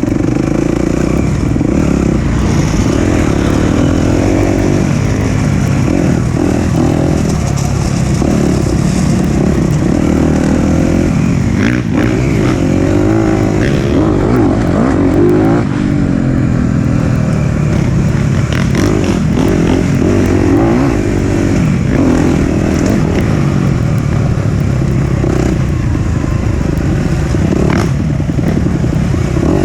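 Suzuki RM-Z250 dirt bike's single-cylinder four-stroke engine, ridden hard along a trail, its pitch rising and falling over and over as the throttle is worked, with clattering and scraping from the bike over rough ground.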